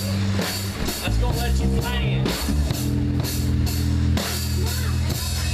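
A live rock band is playing with a drum kit, electric guitars and bass guitar. The drums keep a steady beat over held bass notes, and a stepping run of notes comes down about a second in before the band settles on a new chord.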